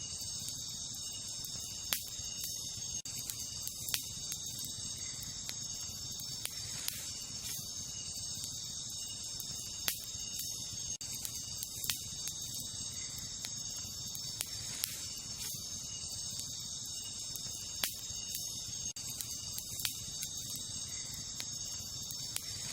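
Wood campfire burning with a low steady rush and sharp crackling pops every second or two, over a steady high chorus of night insects such as crickets.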